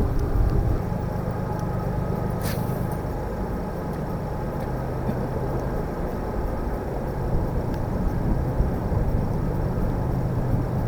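Wind buffeting the microphone in a steady low rumble, with one short, sharp noise about two and a half seconds in.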